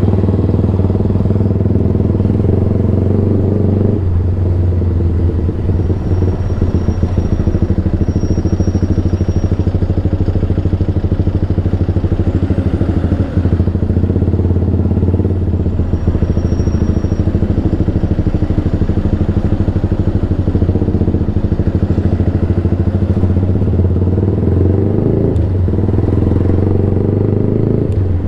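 Yamaha sportbike engine running loud and steady through a Black Widow slip-on can with no baffle, with a slight change of note about four seconds in and again near the end.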